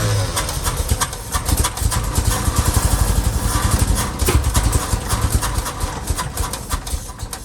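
1966 International Harvester pickup's BG 241 inline-six, long unused, firing and running roughly on the throttle for several seconds, then dying away near the end.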